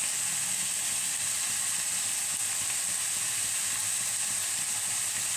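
Chicken pieces with sliced onions, ginger paste and garlic frying in hot oil in a pan: a steady sizzle.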